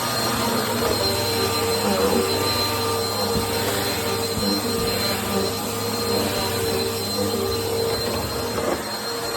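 Bissell PowerTrack upright vacuum cleaner running steadily on a small rug, a constant motor hum with a thin high whine over it and small swells in level.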